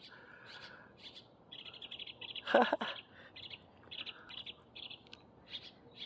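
A songbird singing: runs of quick, high chirps and trills, with one louder sound about halfway through.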